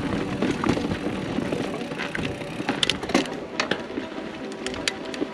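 29er mountain bike riding down rough, rocky singletrack: tyres rolling over dirt and rock, with a run of sharp clicks and knocks from the bike, thicker in the second half.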